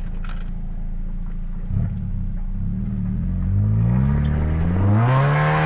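Mazda Miata's four-cylinder engine, heard from inside the cabin, running at a steady low note and then revving hard from about two seconds in. The revs climb to a loud high peak near the end.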